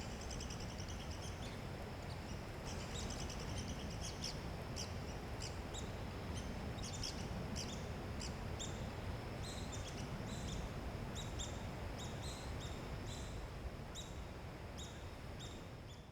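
Birds chirping: many short, high call notes repeated over and over, several a second at times, over a steady high tone and a low background rumble.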